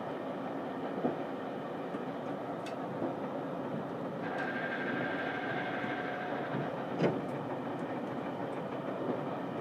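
Interior running sound of a JR Kyushu 787 series limited express, heard in the green private compartment of its KuMoRo 787 motor car: a steady rumble of wheels and running gear. A few sharp knocks come through, the loudest about seven seconds in, and a faint steady whine sounds for about two seconds near the middle.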